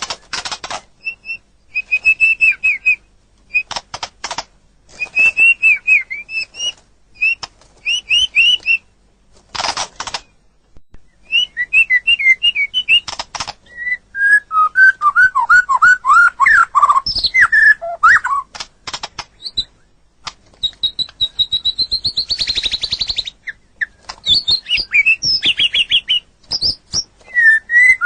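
White-rumped shama (murai batu) singing: varied whistled phrases and repeated notes broken by short pauses, mixed with harsh chattering notes and, later, a buzzy trill.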